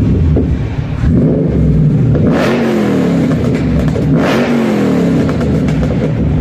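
Car engine revved hard twice, about two seconds apart, each rev rising sharply to a loud peak and falling back toward idle.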